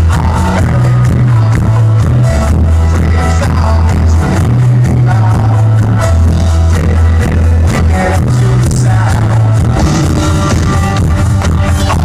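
Loud live band music with heavy held bass notes that shift pitch every second or two, under steady drum hits.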